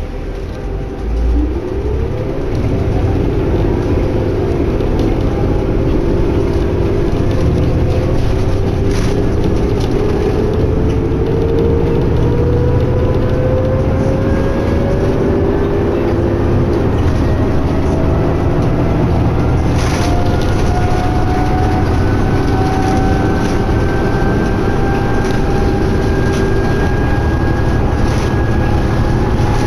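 2011 New Flyer D60LFR articulated diesel bus under way: a steady low engine and road rumble with a drivetrain whine that rises quickly in the first few seconds, then climbs slowly in pitch as the bus gathers speed.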